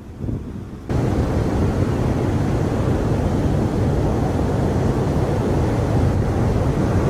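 Strong hurricane wind buffeting the microphone, with the noise of surf mixed in. It comes in abruptly as a loud, steady low rumble about a second in.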